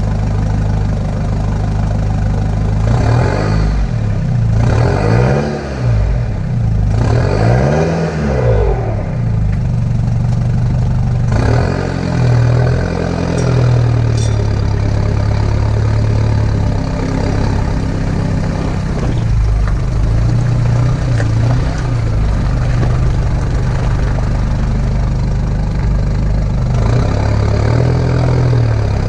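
Nissan Pathfinder engine idling through a 3-inch stainless exhaust. It is revved three times in the first ten seconds, each rev rising and falling back to idle, then given a few lighter blips of the throttle.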